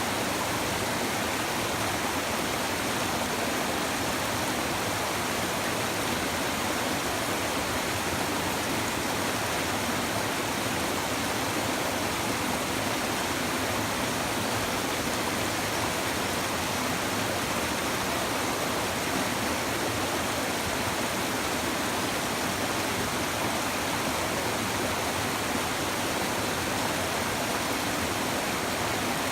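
A river stream babbling and rushing steadily over rocks, an even wash of water noise with no breaks.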